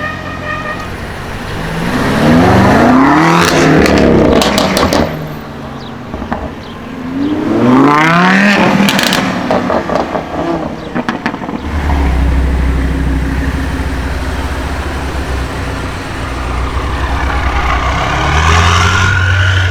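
BMW M5 F90's twin-turbo V8 revving hard twice, each run ending in a quick string of crackles and pops from the exhaust. It then settles into a steady low drone, and the engine climbs again near the end.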